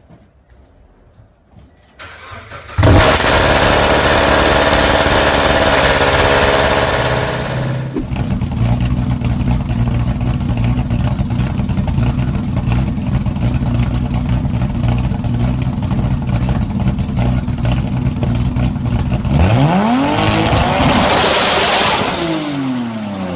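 A car engine with a loud exhaust cranks and fires about three seconds in, then runs at a loud, fast idle. It drops to a lower steady idle about eight seconds in. Near the end it is revved once, the pitch climbing and then falling back.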